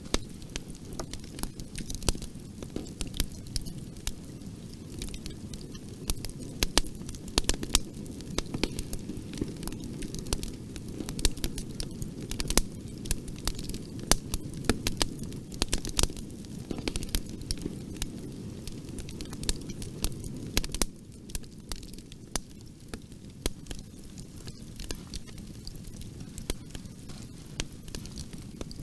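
Wood fire crackling in a fireplace: frequent sharp pops and snaps over a low, steady rumble of the flames. The rumble drops a little about two-thirds of the way through.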